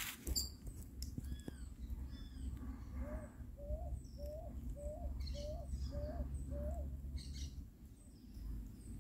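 Birds calling: one repeats a short, low hooting note six times in a row, about one and a half notes a second, while others give higher chirps. A steady low rumble runs underneath.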